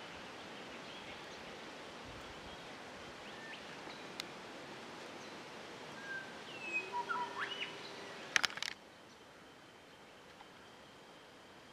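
Outdoor bush ambience with a steady hiss and a bird's whistled call phrase about six seconds in, several notes ending in a sharp upward sweep. A few sharp clicks come about eight and a half seconds in, after which the background turns quieter.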